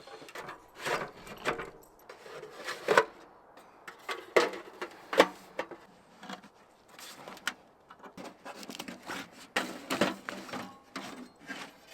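Camping gear being handled and set down: a string of irregular knocks and clicks with rustling in between.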